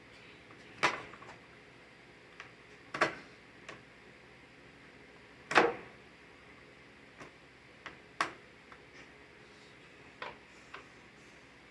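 Irregular sharp knocks and clicks, about five loud ones among fainter ticks: tools and parts being handled during work on a lawn mower.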